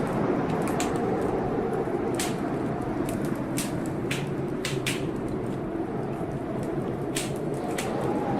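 Blizzard wind blowing steadily outside, with a faint whistle that swells near the end, over a fireplace crackling with sharp, irregular pops.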